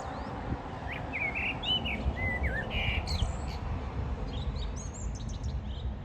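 Songbirds singing: a run of short whistled notes and quick up-and-down phrases, with higher, thinner chirps later on, over a steady low background rumble.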